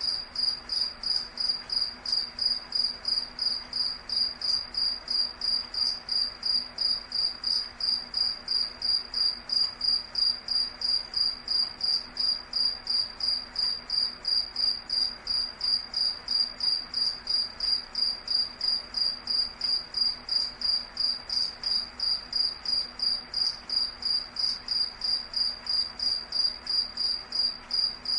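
A cricket-like insect chirping at one high pitch, an even rhythm of about three chirps a second that never stops.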